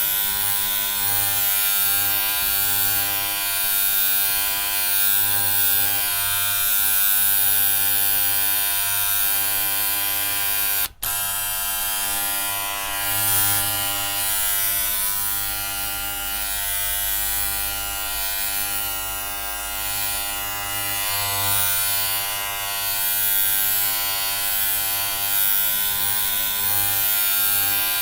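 Electric hair clippers buzzing steadily, with a brief cut-out for a split second about eleven seconds in.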